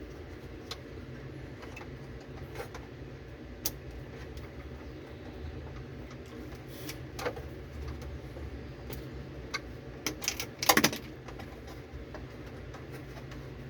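Scattered small metallic clicks and clinks of hand tools and fittings being handled, with a quick cluster of louder clinks about eleven seconds in, over a steady low hum.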